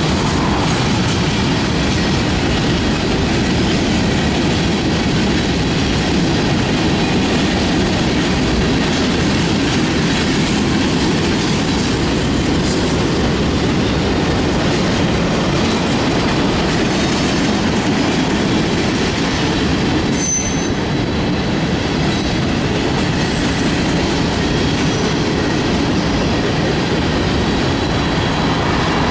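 Cars of a Union Pacific mixed freight train (covered hoppers, tank cars and boxcars) rolling past: a steady, loud sound of steel wheels on rail.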